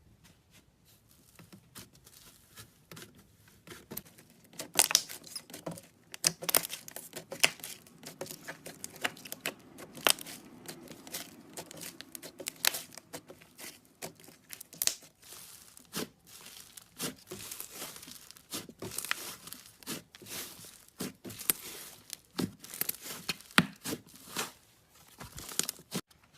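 Slime being squeezed and stretched by hand, giving a dense, irregular run of wet crackles and pops that starts about four seconds in.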